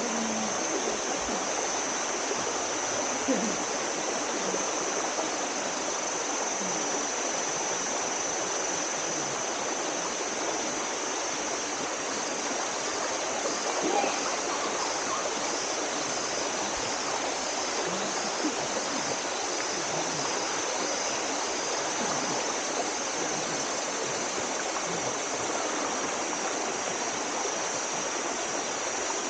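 Steady rush of the Telaga Tujuh mountain stream pouring through its rock pools and falls, with a thin, steady high-pitched tone above the water.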